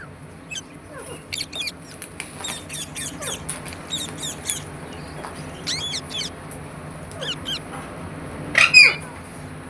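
Pet green parrot making a run of short, high chirps and squeaky calls, with one louder squawk near the end.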